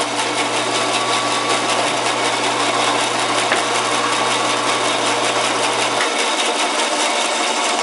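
Homemade 16-inch wooden bandsaw running with a steady mechanical whir. A low hum under it drops out about six seconds in.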